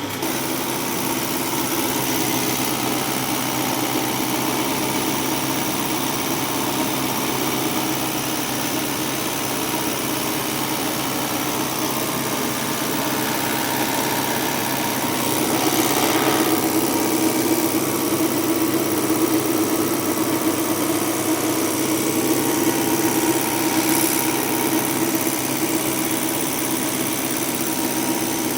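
Mahindra tractor's diesel engine idling steadily; it grows somewhat louder about halfway through.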